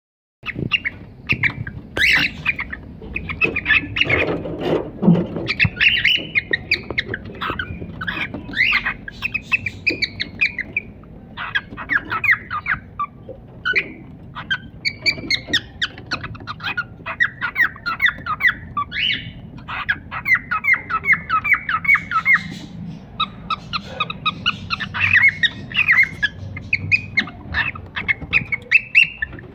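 A pair of cockatiels calling and chirping almost continuously: rapid runs of short, high, repeated notes with occasional louder squawks.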